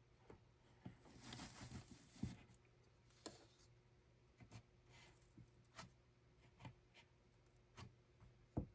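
Faint rustling and scattered light clicks and taps of hands handling things, the sharpest tap near the end, over a low steady hum.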